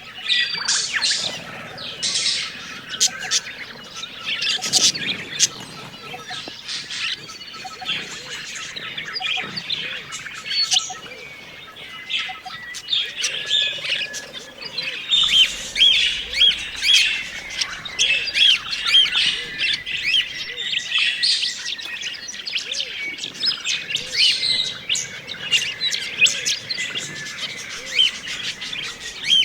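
A flock of budgerigars chirping and warbling, many birds calling over one another without a break, with a run of quick rising-and-falling chirps in the second half.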